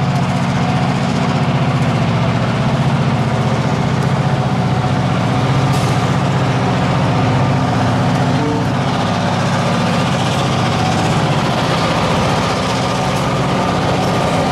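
Diesel locomotive engine running steadily with a deep, even drone.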